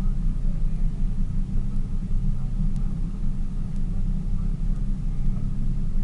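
Tour boat's engine running steadily, a constant low rumble heard from on board.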